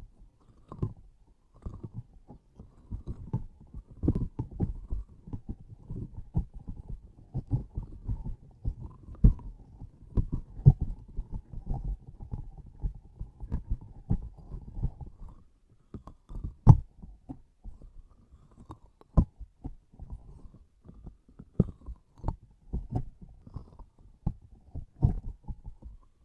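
Close-miked sticky objects being squeezed and pressed: a dense, irregular run of soft low thuds and tacky pops, with a few sharper clicks, the loudest about two thirds of the way through.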